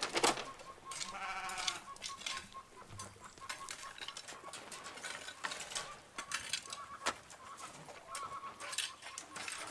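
A goat bleating: one short, wavering bleat about a second in, with a loud noisy burst at the very start and scattered clicks and knocks around it.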